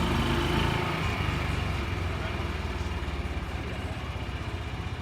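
A vehicle engine running steadily with a low rumble, a little louder in the first second or so.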